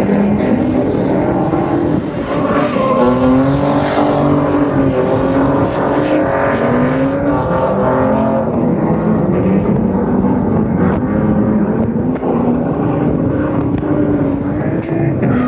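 Drift cars' engines revving hard, the pitch climbing and dropping again and again as the drivers work the throttle through a run.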